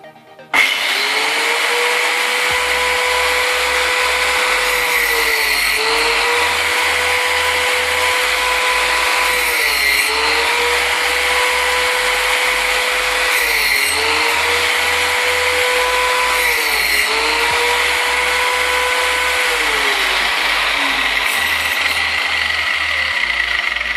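Angle grinder starting up and running at speed, its pitch sagging and recovering about every four seconds as it bites and is eased off.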